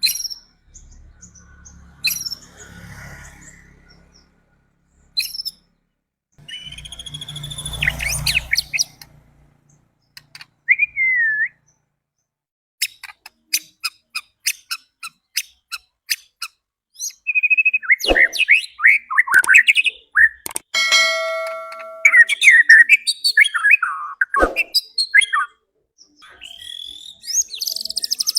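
White-rumped shama (murai batu) singing: varied whistled, gliding and rattling phrases with pauses between them. A run of rapid ticks comes midway, followed by a dense stretch of song, and a low rumble sits under two of the early phrases.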